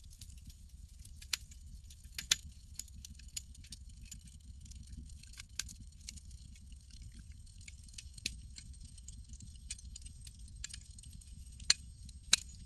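Campfire crackling: irregular sharp pops and snaps over a steady low rumble. The loudest pops come about two seconds in and twice near the end.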